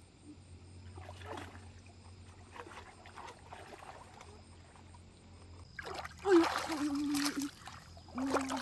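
Water splashing and trickling in a shallow stream pool: faint and intermittent at first, then loud, irregular splashing from about six seconds in.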